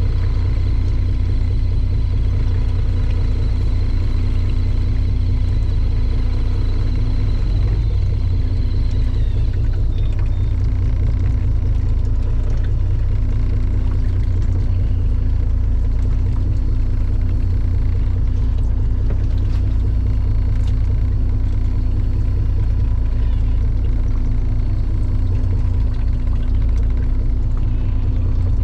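Fishing boat's engine running at a steady pace: a continuous low rumble with a steady hum.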